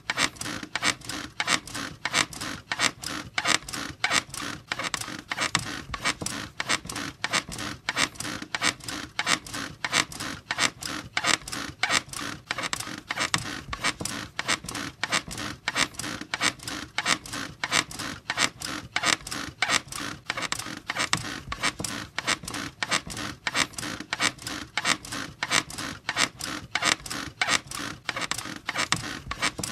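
A bed squeaking over and over in a steady, even rhythm.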